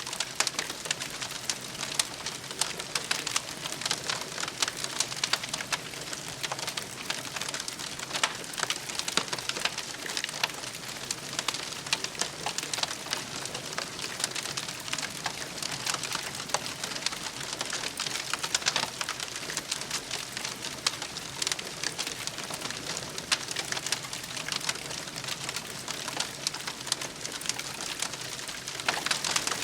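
Campfire crackling and popping: a steady hiss of burning wood with frequent sharp, irregular snaps.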